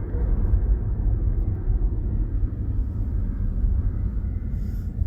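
Steady low rumble of a car in motion heard from inside the cabin: road and wind noise.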